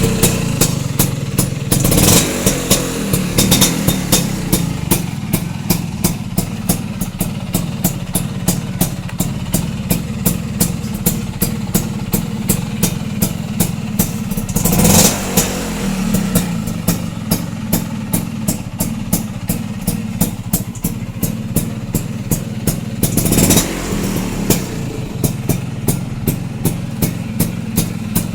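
Vespa Excel 150 two-stroke single-cylinder scooter engine idling, with a regular tick about three times a second. It is briefly revved three times: early on, about halfway, and a few seconds before the end.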